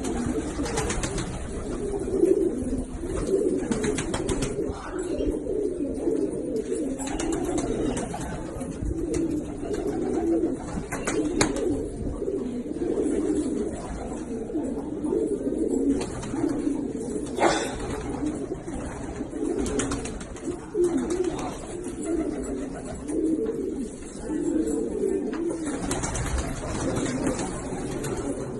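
A flock of domestic pigeons of Pakistani breed cooing continuously, many birds overlapping, with a couple of sharp clicks partway through.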